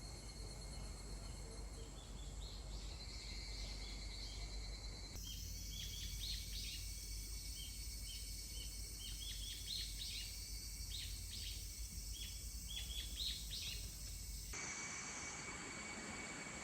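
Outdoor ambience: small birds chirping over a steady high insect drone and a low rumble. The background changes abruptly twice, about five seconds in and near the end.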